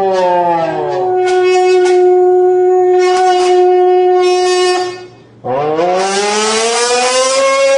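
Voice buzzed into a pinched beer can, which resonates to give a buzzy, horn-like tone. The pitch slides down and holds steady, breaks off about five seconds in, then comes back and rises like an engine revving.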